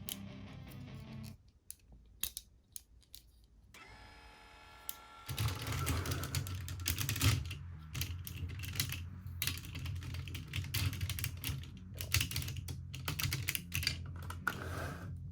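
Hard plastic toy parts clicking and snapping as they are handled, first as scattered clicks and then, after about five seconds, in dense irregular runs. A brief pitched tone sounds in between.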